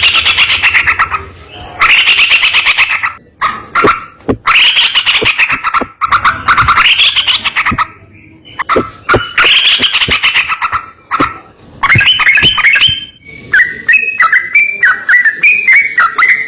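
Yellow-vented bulbul (trucukan) singing loudly: a series of harsh, rapidly rattling phrases about a second long each, repeated every couple of seconds. Toward the end it changes to a quicker run of short chirping notes.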